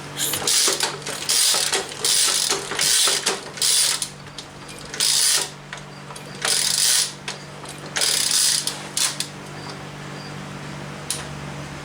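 A ratchet wrench clicking in about eight quick spells of cranking, each half a second to a second long, as fasteners are run down while the engine is put back together. A single sharp tick comes near the end.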